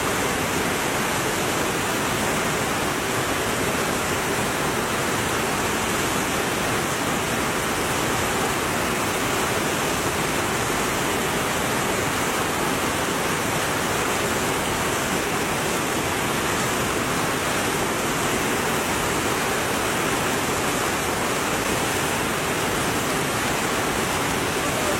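Steady rushing of a fast-flowing stream, an even wash of noise with no change.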